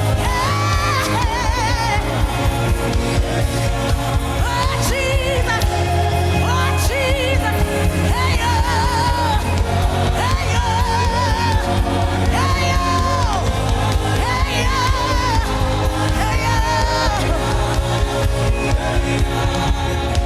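Gospel worship music: a solo singer holding long, wordless notes with wide vibrato over sustained chords and a steady bass.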